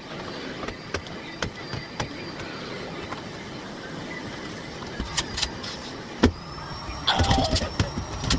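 Scattered clicks over a faint steady noise, then a high motor whine rising and levelling off about five seconds in as the Miele Blizzard CX1 vacuum cleaner runs up. From about seven seconds in it gets louder, with rattling clicks.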